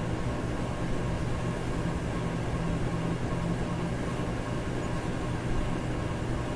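Electric fan running steadily: an even whooshing noise over a low hum, with no change in speed.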